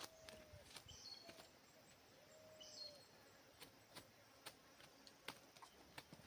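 Near silence with faint bird calls, a few soft drawn-out notes and short high chirps, over scattered light clicks.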